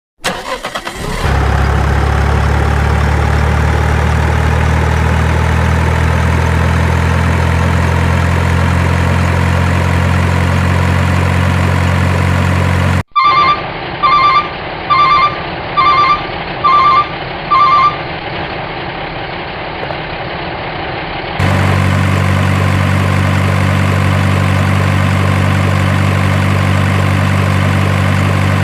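Truck engine idling steadily; the sound cuts off abruptly about halfway through. Six evenly spaced electronic beeps follow, about a second apart, then the steady engine idle comes back near the end.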